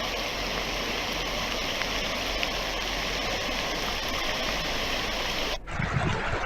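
Steady rush of flowing water. About five and a half seconds in it cuts off abruptly, replaced by a different, lower rumbling.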